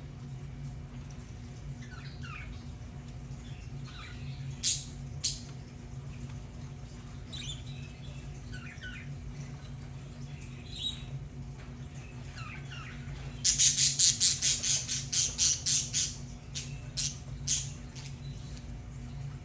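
Budgerigars chirping: soft short warbling calls scattered throughout, two sharp loud calls about five seconds in, and a rapid run of loud sharp chirps, about five or six a second, in the last third, over a steady low hum.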